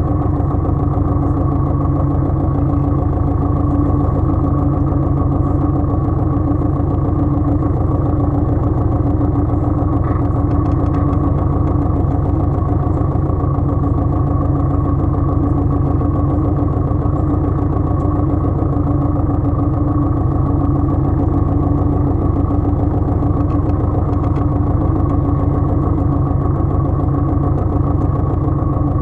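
Pasquali 980 EX compact tractor's engine running steadily at constant speed.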